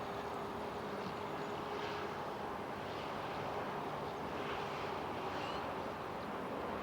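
Steady airport background noise: a continuous, even rumble of far-off aircraft and ground traffic, with a faint steady hum that fades out about two seconds in.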